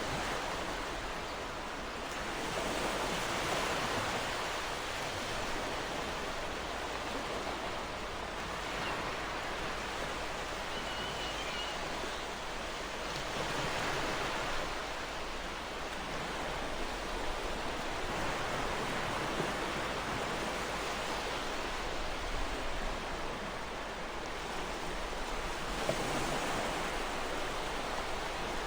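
Ocean waves washing onto a shore: a steady surf hiss that swells every five or six seconds.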